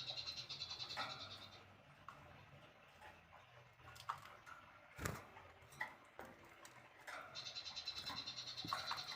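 Recorded songbird calls: a fast, even, high trill of about seven notes a second that stops after about a second and a half, then scattered short chirps and a sharp click about five seconds in, and the trill starting again near the end.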